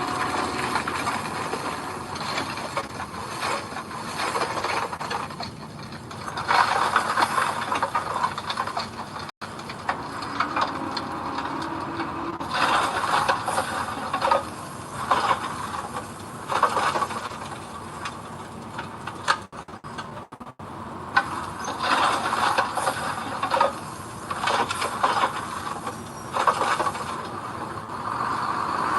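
Heavy machinery working gravel: scraping, grinding and clanking that come in irregular surges. The sound cuts out briefly twice.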